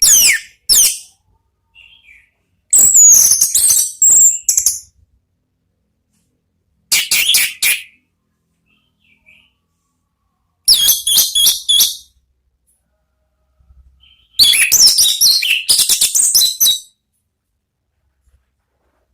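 Orange-headed thrush singing loud, full 'ngeplong' song: six separate phrases of high, quickly varied whistles and trills, the longest about two seconds, with silent pauses of one to three seconds between them.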